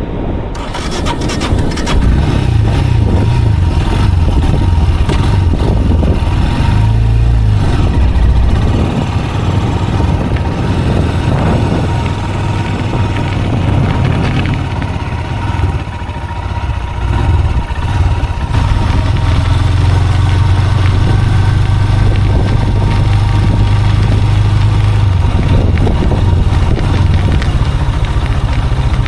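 Engine of a moving vehicle running, its revs changing several times, then holding a steady low drone through the last third.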